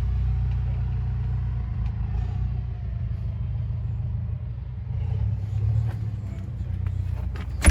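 Steady low rumble of a running vehicle engine, with a sharp knock near the end.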